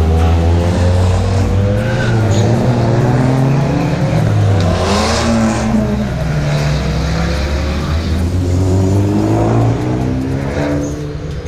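Several Abarth cars driving one after another through a hairpin bend, their turbocharged four-cylinder engines revving as they accelerate and passing close by, the engine pitch rising and falling with each car. The closest, loudest pass comes about five seconds in.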